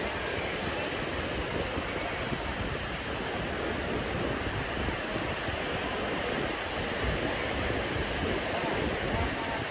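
Sea surf breaking and washing up a sandy beach: a steady, unbroken rushing of waves.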